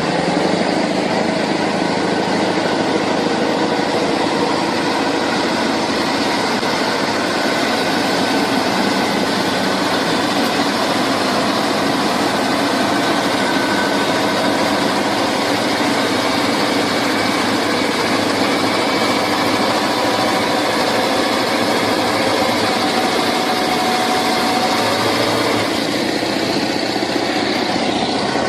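A vehicle engine running steadily, with a constant drone and no marked change in pitch or level.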